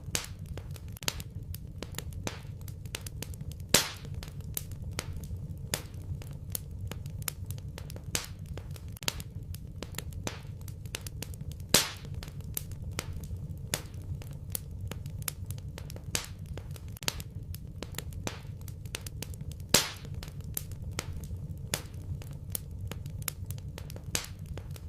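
Wood fire crackling in a fireplace: a steady run of small crackles and snaps over a low rumble, with three louder pops about eight seconds apart.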